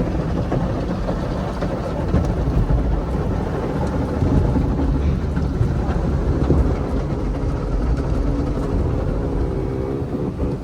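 Automatic car wash heard from inside the closed car: water spray and wash machinery working on the car body, a loud, steady, low wash of noise.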